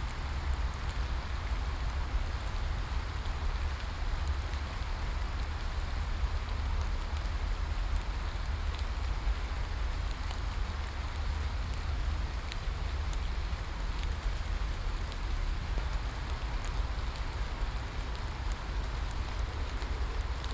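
Steady rain falling: an even hiss with a low rumble underneath and scattered faint drop ticks.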